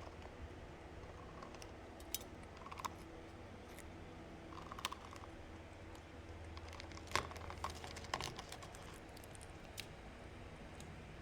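Sparse light clicks and taps, the sharpest about two, five and seven seconds in, over a low steady hum.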